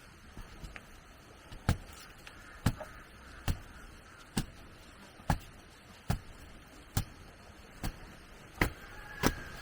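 Regular blows of a hand tool striking bamboo or wood, about one a second, nine strikes in a row.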